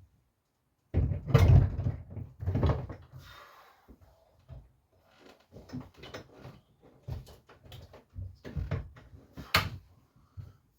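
Knocks, thuds and clatters of heavy boiler parts being handled. The heaviest thuds come about one to three seconds in, then lighter knocks and clicks, with a sharp click near the end.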